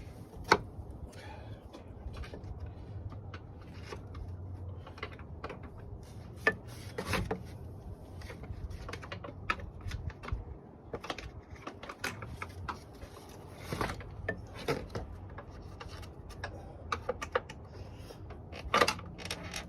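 Irregular clicks, knocks and rubbing as a replacement radiator fan assembly is wrestled into place in the engine bay.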